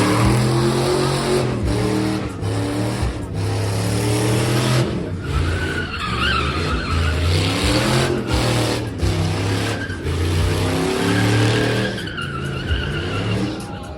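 Truck engine revving hard, its pitch rising and falling, with tyres spinning and squealing in a burnout. There are sharper squeals about six seconds in and again near the end.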